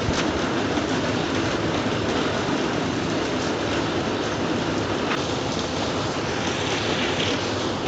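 Steady, even rain-sound ambience played as white noise for sleep, with a couple of faint ticks about five seconds in.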